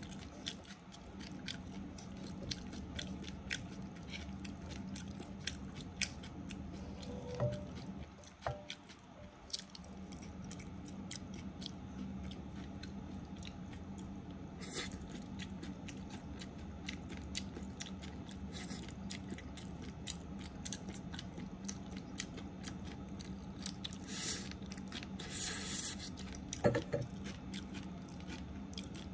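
Close-miked chewing of stir-fried spaghetti: many small wet clicks and crackles, with a few louder bursts near the end, over a steady low hum.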